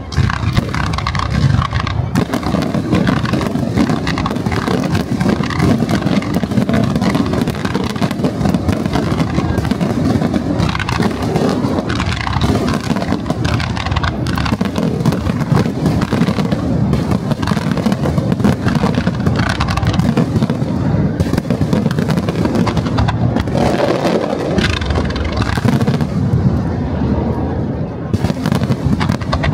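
Fireworks display in full barrage: many aerial shells and low-level effects bursting in quick succession, their bangs and crackling running together into one continuous loud rumble.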